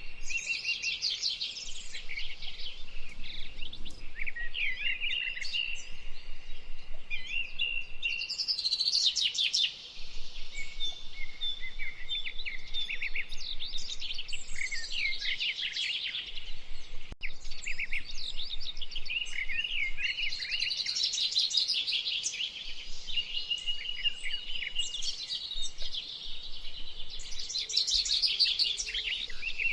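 Songbirds singing and chirping without a break: a dense run of quick notes and trills, several voices overlapping.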